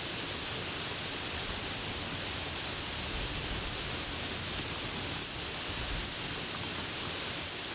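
Steady, unbroken hiss of heavy rain falling.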